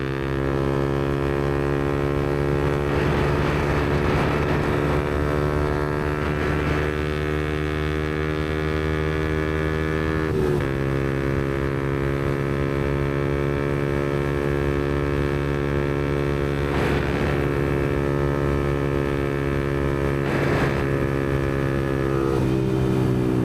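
Yamaha MT-125's single-cylinder 125 cc four-stroke engine, breathing through an aftermarket Black Widow exhaust, running steadily at cruising revs. The engine note dips briefly about ten seconds in and falls away near the end as the revs drop.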